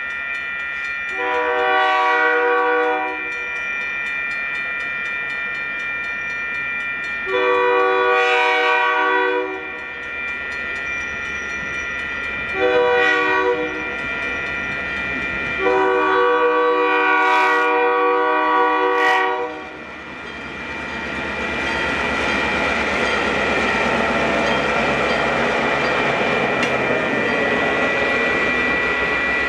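Diesel locomotive horn sounding the grade-crossing signal: two long blasts, one short, one long, over a crossing bell ringing steadily. After the last blast the train passes, its wheels on the rails building into a steady rumble.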